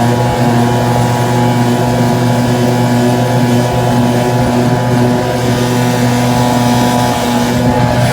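Small 5 hp outboard motor running steadily at speed on the plane, one unchanging engine note. The motor is jacked up high so its bronze racing propeller runs surface-piercing, partly out of the water.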